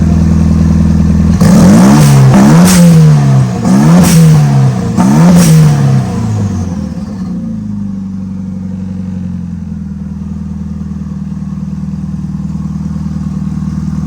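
Renault Megane R26 2.0-litre turbo four-cylinder engine, swapped into a Clio, idling and then revved sharply four times in quick succession before it drops back to a steady idle. This is a test of the turbo's boost with the boost pipe clamped on.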